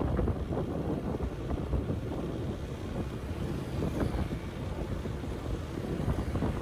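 Wind buffeting the microphone, an uneven low rumble, over street traffic noise.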